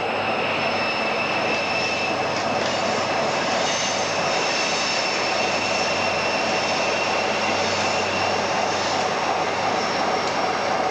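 Train locomotive running at the station: a steady mechanical rumble with a steady high-pitched whine over it.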